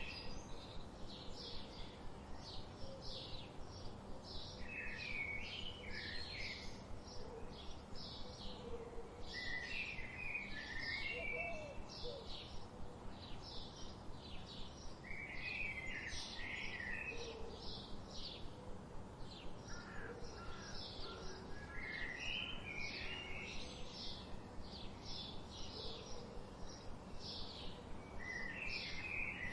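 Birds singing: a continuous run of quick high chirps, a few each second, with a short, lower warbled phrase that returns about every five or six seconds.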